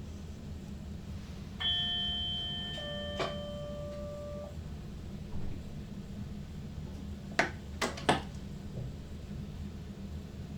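Electronic two-note chime, a higher tone then a lower one, over the steady low hum of a train cab. Three sharp clicks follow a few seconds later.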